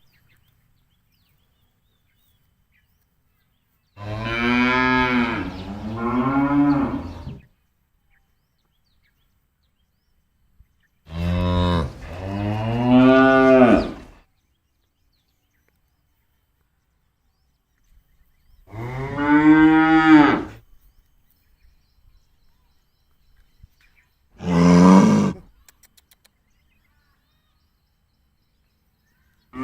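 A cow mooing four times: long, drawn-out calls whose pitch rises and then falls, with the last one shorter than the others.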